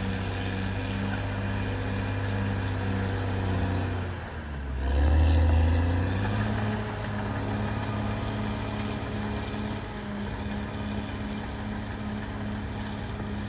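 CAT D6R XL bulldozer's diesel engine running with a regular pulsing note. About four and a half seconds in it drops in pitch, then swells to its loudest with a deep low note before settling back to a steady run.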